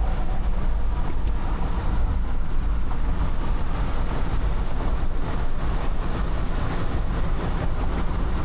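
A vehicle driving along: a steady, loud rumble of road and engine noise with no changes.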